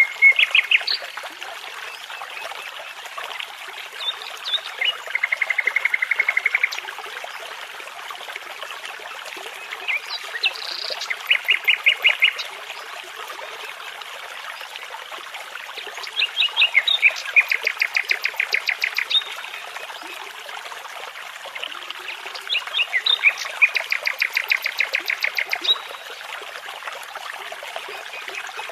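A nightingale singing, with phrases of rapid repeated notes every few seconds, over the steady rush of a babbling brook.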